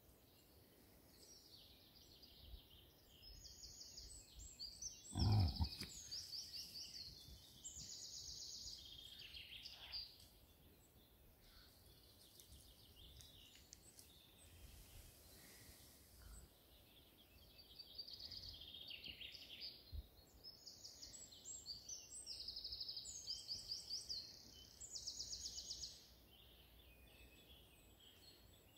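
Small birds singing in repeated runs of high, rapidly pulsed trills. About five seconds in there is a single short, low sound, louder than the rest.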